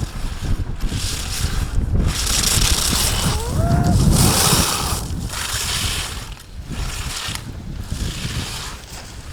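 Ski edges scraping and hissing on hard snow through a run of slalom turns, one surge about every second, over a low rumble of wind on the microphone.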